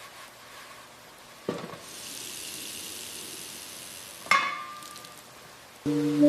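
A soft knock, then tap water running into a sink for a couple of seconds, cut off by a single ringing clink of a dish. Music starts near the end and is the loudest sound.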